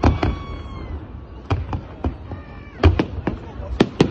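Fireworks going off: an irregular string of about ten sharp bangs and crackles. Two faint falling pitched tones are heard, one at the start and one about halfway through.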